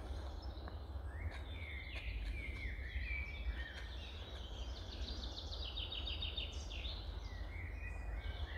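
Woodland birds singing: scattered chirps and whistles, with a fast trill of quickly repeated notes about five seconds in, over a steady low rumble of background noise.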